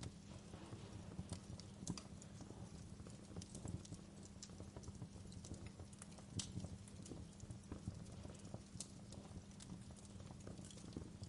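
Wood fire burning in a fireplace: a steady low rumble with irregular crackles and pops, a few sharper snaps among them.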